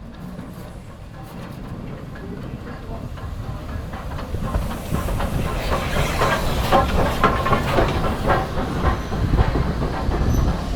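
Steam train approaching and growing steadily louder, with a hiss of steam and its wheels clicking over the rail joints, denser from about four seconds in.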